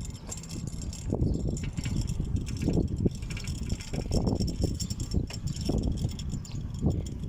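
Dust-storm wind buffeting the microphone: a low, uneven rumble that surges and drops in gusts.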